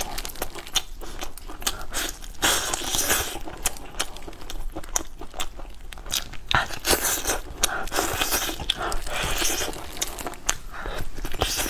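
Close-miked eating of a roast chicken leg: biting, chewing and pulling meat from the bone, with many short irregular crunches, clicks and wet mouth sounds.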